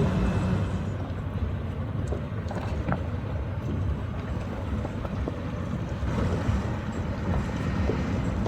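Low, steady engine rumble with a few faint clicks.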